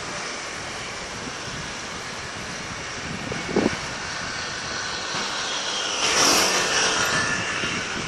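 Fireworks display: a steady outdoor rumble, with a short sound about three and a half seconds in and a louder hissing, crackling burst about six seconds in that lasts a second and a half.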